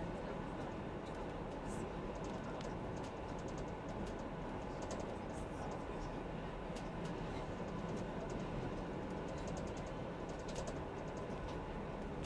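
A train running along the track, heard from the driver's cab: a steady rumble of wheels on rail, broken several times by short runs of rapid, sharp clicking ticks.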